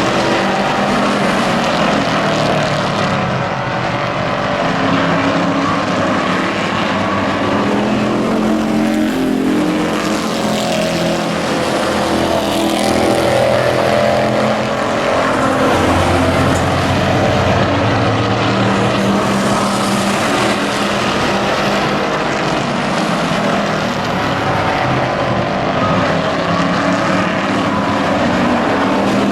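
Engines of several Hobby-class race trucks running hard around the oval, their sound swelling and fading as the pack comes past and goes away, with many engine notes overlapping.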